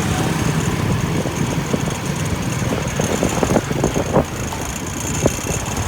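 A motor vehicle engine idling steadily close by, with scattered short clicks and knocks over the second half.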